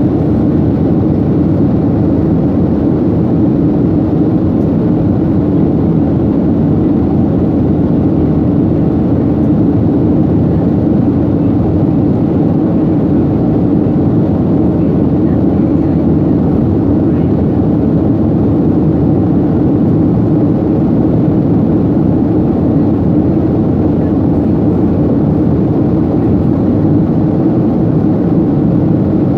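Jet airliner in flight, heard from inside the passenger cabin: a steady, unbroken roar of the engines and rushing air, strongest as a deep hum.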